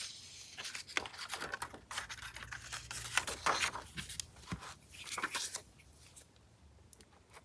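Sheets of craft paper rustling and sliding as they are handled, with short irregular crinkles and scrapes that die down over the last couple of seconds.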